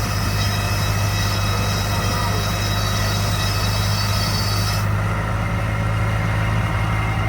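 An engine running steadily at constant speed with a deep hum; the higher tones of the sound drop away about five seconds in.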